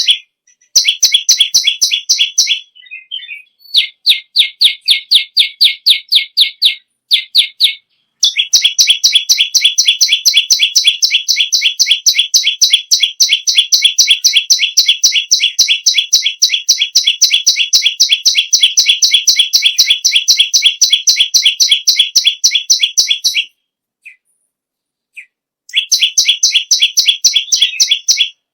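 Perenjak lumut songbird singing loud, fast strings of sharp, rapidly repeated chirping notes. One unbroken burst runs about fifteen seconds, and shorter bursts come before and after it with brief pauses between.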